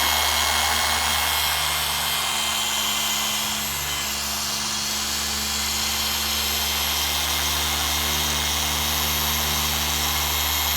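Electric random-orbital machine polisher running steadily on car paint, a constant whirring hum with a faint high whine.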